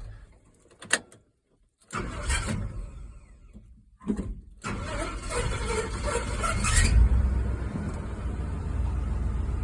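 Ford 390 V8 engine of a 1972 F-250 being started: a click, brief cranking, then the engine catches about four and a half seconds in, revs once near seven seconds and keeps running steadily through its aftermarket headers.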